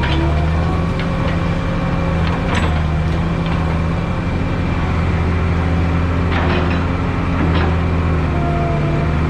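Diesel engine of heavy earthmoving equipment running steadily, with a few sharp metallic clanks.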